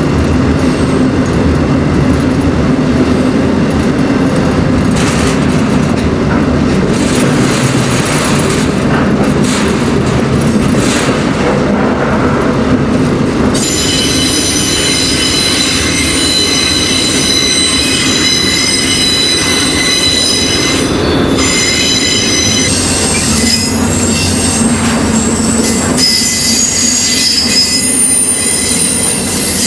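A moving freight train heard from aboard one of its cars: a steady rumble of wheels on the rails. About halfway through, a high-pitched squeal of steel wheels on the rail sets in over the rumble, with several steady tones that shift near the end.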